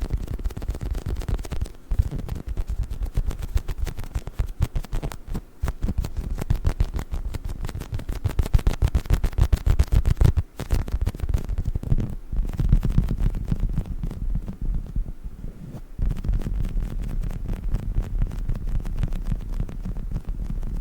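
Squishy dinosaur toy handled rapidly: a dense, fast run of soft, low thumps and squishes, with a brief break about ten and a half seconds in.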